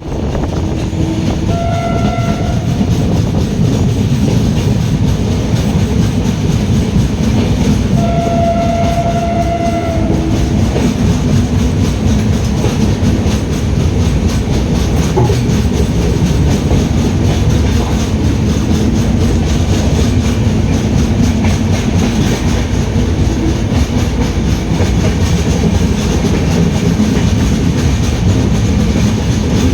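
Passenger train running along the track with a steady, loud rumble. A train horn sounds twice, briefly about a second in and again, longer, around eight seconds in.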